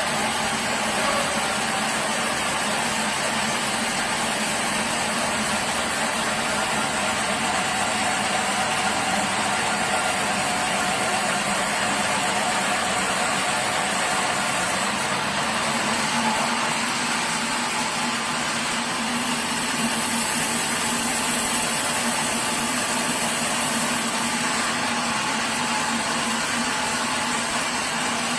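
Sawmill machinery running steadily: a continuous engine-like drone with a constant hum and no breaks.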